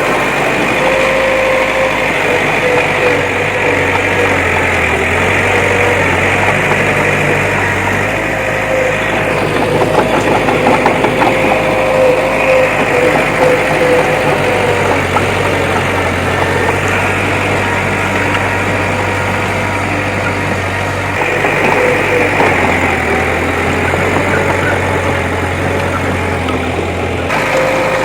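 Diesel engine of heavy earthmoving machinery running steadily, with a steady whine over a low hum and a louder, clattering stretch about ten seconds in.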